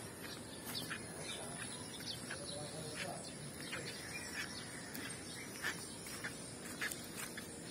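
Small birds chirping outdoors: short, scattered chirps coming every second or so over a steady background hiss.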